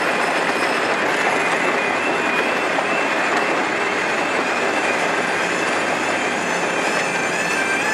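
Passenger train running slowly, heard from an open window of one of its coaches: a steady rumble and hiss of wheels on rail with a thin, steady high squeal from the wheels. Near the end a series of gliding high tones comes in.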